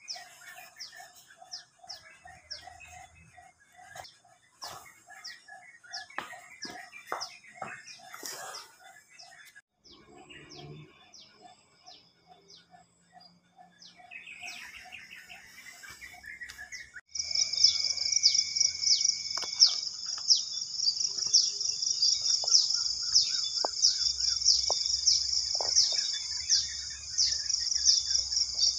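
Birds chirping and calling: short high chirps over a lower note repeated a few times a second, then a little past halfway a louder, steady high-pitched chirping chorus comes in.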